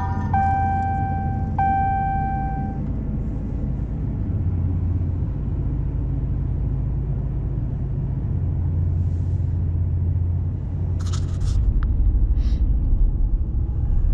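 Vehicle cabin: a warning chime beeps for the first couple of seconds, then the engine and cabin rumble steadily. A few clicks come about eleven seconds in, and the low rumble grows louder near the end.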